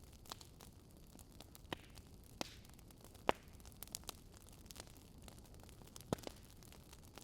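Burning wood logs crackling: scattered sharp pops and snaps over a soft steady hiss, with the loudest pop about three seconds in and another near the end.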